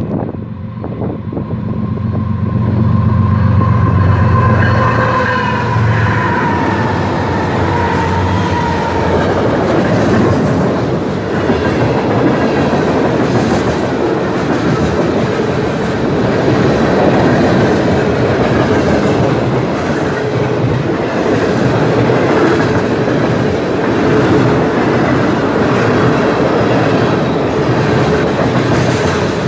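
A CN freight train passing close by at speed. The diesel locomotives drone past in the first several seconds, with the pitch dropping slightly as they go by. Then a long string of boxcars and tank cars rattles and clacks steadily over the rails.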